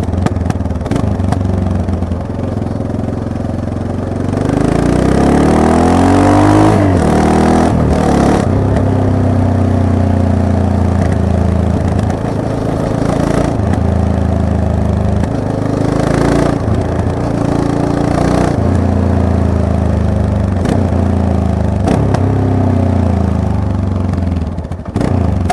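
Yamaha MT-03 motorcycle engine running under way: it revs up hard about four seconds in, breaks off briefly as if for a gear change, then keeps pulling with its note rising and falling repeatedly.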